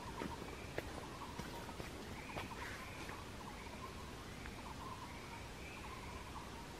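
Wild birds calling in forest: a repeated rattling call and a higher, arching chirp that recurs about once a second, with a few footsteps on the stone path during the first two seconds.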